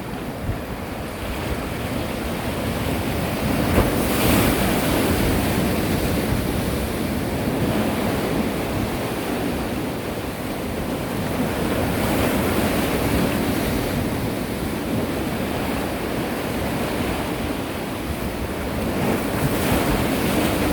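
Sea waves washing in and ebbing in slow surges every several seconds, with wind buffeting the microphone.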